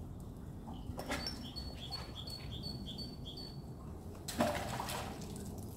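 A small bird singing a short high phrase over and over, about two phrases a second, over a steady low rumble. About four seconds in, a brief rushing burst of noise is the loudest sound.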